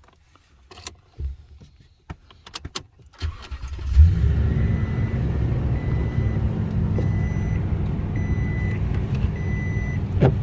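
Some light clicks and rattles, then a truck engine cranks and starts about three seconds in and settles into a steady idle. A dashboard warning chime beeps five times at an even pace over the idle.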